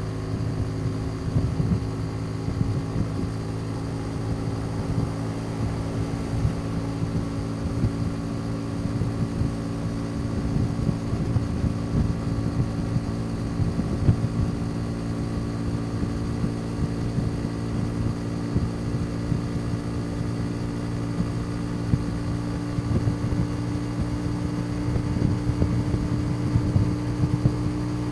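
Motorcycle engine running steadily under way at a cruising pace, a constant drone over an uneven low rumble, its pitch edging up slightly near the end.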